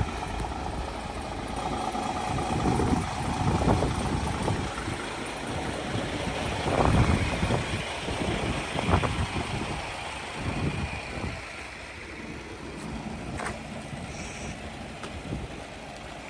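Diesel engine of a DAF XF480 truck tractor unit idling, with an uneven low rumble that eases off slightly about halfway through.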